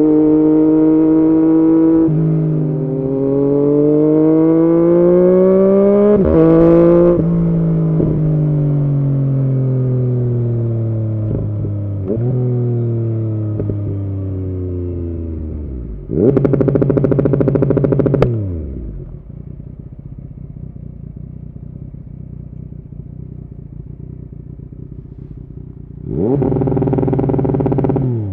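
Yamaha MT-09's three-cylinder engine through an Arrow aftermarket exhaust, running loud. Its pitch climbs through a few shifts in the first several seconds, then falls away steadily. About sixteen seconds in the revs are held high and steady for about two seconds, drop back to idle, and are held high again near the end.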